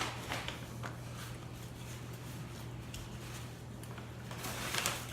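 Steady low hum with a few soft clicks early on and a brief rustle near the end.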